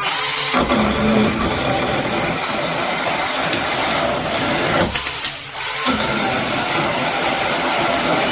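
Small battery-powered mini chainsaw with a brushed electric motor running flat out and cutting through a 2x4: a steady motor whine under the hiss of the chain tearing through wood. The sound dips briefly about five seconds in and then picks up again.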